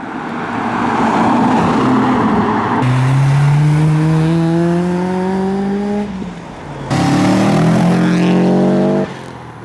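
Modified car accelerating away hard through the gears. The engine note rises steadily for about three seconds, breaks off for a gearchange about six seconds in, then rises again in the next gear before the driver lifts off near the end.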